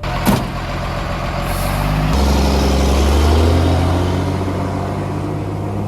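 Heavy diesel engine of construction machinery running, with a sharp knock shortly after the start; about two seconds in the engine revs up, its note rising slightly and then holding steady under load.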